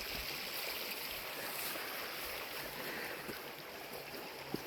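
A river rushing: a steady, even rush of flowing water, with a single faint knock near the end.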